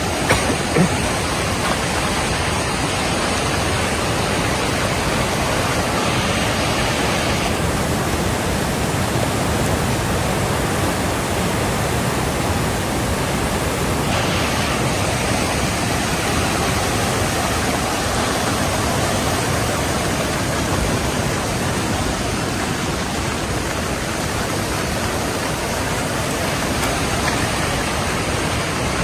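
Fast-flowing flash-flood water rushing steadily, a dense, even noise of torrenting water, with a couple of brief knocks about a second in.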